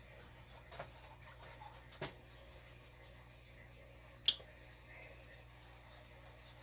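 Quiet handling of paint bottles and a cup while paint is poured in layers: a few soft knocks, then one sharp click about four seconds in.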